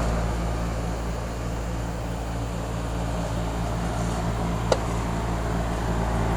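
Trane XR11 2.5-ton heat pump outdoor unit running in cooling mode: a steady hum from its recently replaced Climatuff compressor with the condenser fan's airflow. A single short tick sounds about three quarters of the way through.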